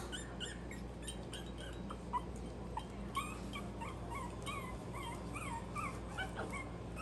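A litter of young Maltese puppies whimpering and squeaking, many short high-pitched squeaks overlapping one another, over a steady low hum.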